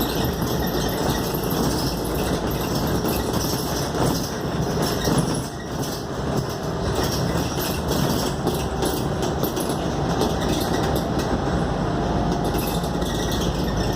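Steady engine and road noise heard from inside the cabin of a Scania K280UD double-decker bus under way.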